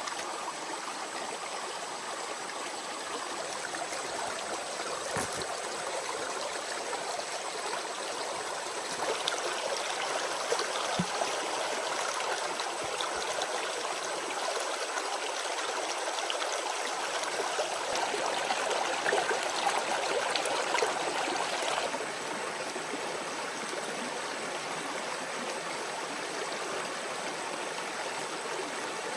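Water of a small stream running steadily, louder for a stretch in the middle, with a few light knocks.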